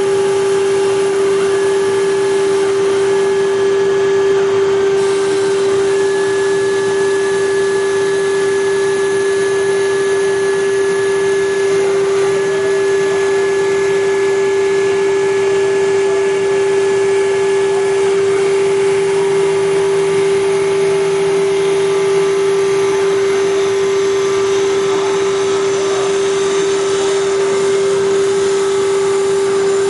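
Hager HD300A-CNC computer-controlled wood-turning lathe running steadily: a constant machine hum over a noisy haze, with fainter higher tones that start and stop every few seconds.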